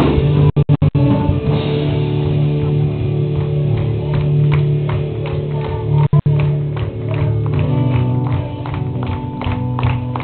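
Live band playing a rock instrumental passage, electric guitar chords over a drum kit. The sound cuts out briefly four times in quick succession about half a second in, and once more at about six seconds.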